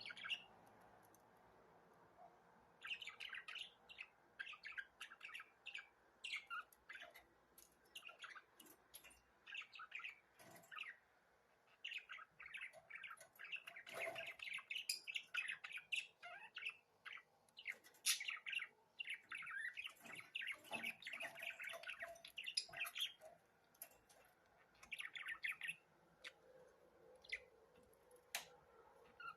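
Budgerigars chirping in quick runs of short, high chirps, with brief lulls between the runs.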